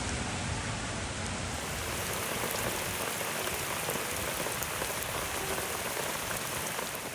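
Heavy rain pouring steadily, with scattered drops ticking on hard surfaces.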